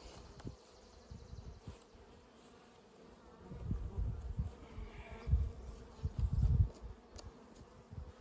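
Swarm of honeybees buzzing around a hive as a steady hum, the colony just moved into a new hive box and still flying at the entrance. Low rumbling bumps come and go through the middle.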